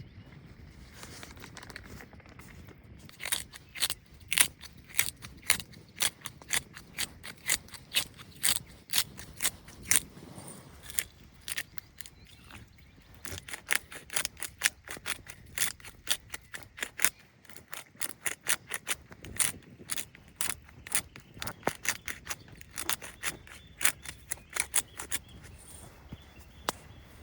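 A long series of sharp, short clicks, two or three a second in loose runs with brief pauses, like repeated snipping or cutting.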